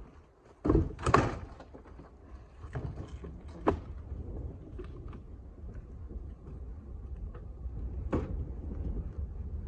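A few heavy knocks and thuds: a loud double impact about a second in, then single sharper knocks, over a steady low rumble.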